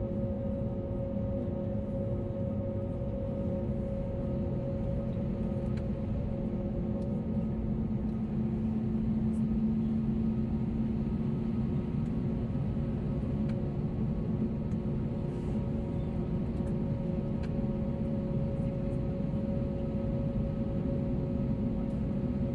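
Steady cabin drone of an Airbus A321neo in flight, heard from a window seat: jet engine and airflow rumble with several steady humming tones over it.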